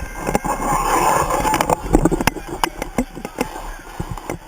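Crowd commotion in the rain: a rushing noise with many sharp knocks and slaps scattered through it, loudest in the first two seconds.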